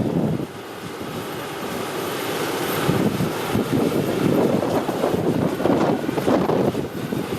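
Boeing 757 jet engines growing louder as the airliner approaches, under heavy gusting wind buffeting the microphone.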